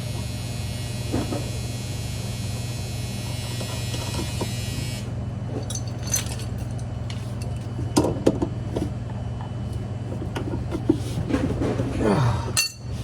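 Clicks and knocks of washer drive parts and tools being handled during reassembly, over a steady low hum; a fine high buzz under the hum stops about five seconds in.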